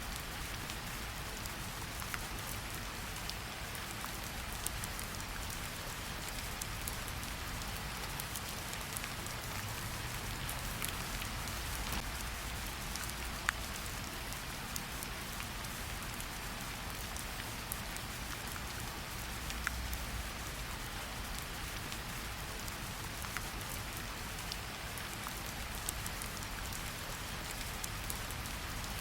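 Steady rain falling in a forest, an even hiss with scattered sharper individual drop ticks.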